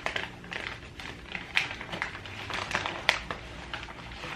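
Packaging being unwrapped from a potted plant by hand: irregular rustling and crinkling with small clicks, and two sharper snaps about one and a half and three seconds in.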